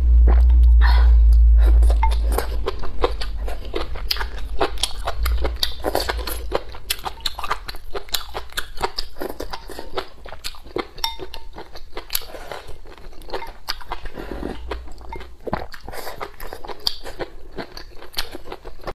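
Chewing sounds from a person eating chicken soup with chicken and mushrooms, picked up on a clip-on microphone close to the mouth, with many sharp clicks throughout. A low rumble sits under the first couple of seconds.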